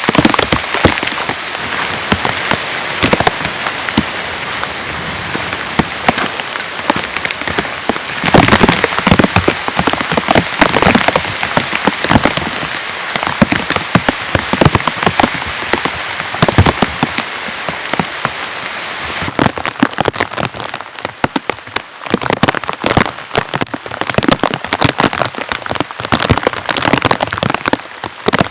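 Heavy rain falling, a dense steady hiss packed with the sharp hits of individual drops striking close by. About two-thirds of the way in, the hiss thins and separate loud drop impacts stand out more.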